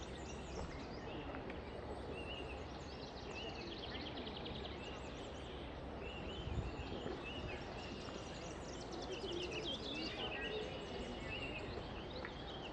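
Many small songbirds singing and calling at once, with quick repeated chirps and trills, over a steady low outdoor rumble. A brief low bump sounds about halfway through.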